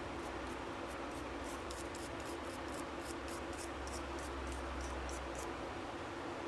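Light scraping or rubbing strokes, about three a second, over a steady low hum.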